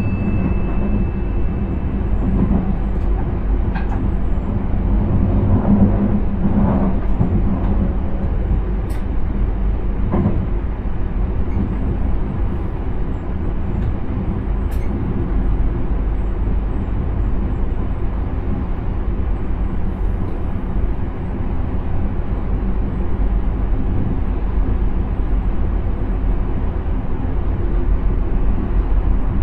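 Steady running noise inside the driver's cab of a Dutch intercity train under way: a continuous low rumble of wheels on rail and traction equipment, with a few faint clicks. A short high electronic tone fades out right at the start.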